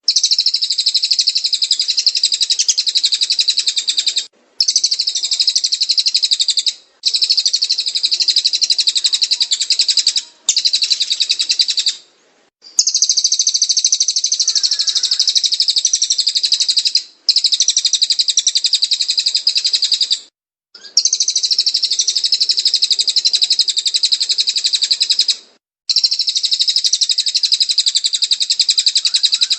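Cililin bird song for tutoring cage birds: rapid, dense, high-pitched chirping and trilling in eight bouts of a few seconds each, broken by short gaps of under a second.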